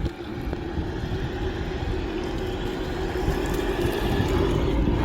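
A Gmade GS02F Buffalo scale RC off-road truck driving, its electric motor and gears whirring steadily and getting gradually louder.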